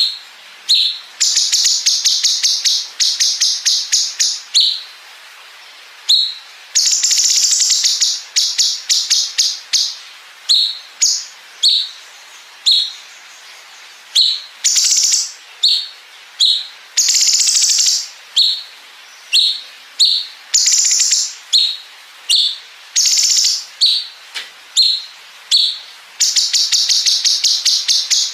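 A cucak cungkok songbird singing high-pitched song. Short clear notes alternate with long, fast, machine-gun-like 'bren' trills of rapidly repeated notes, the longest lasting two to three seconds.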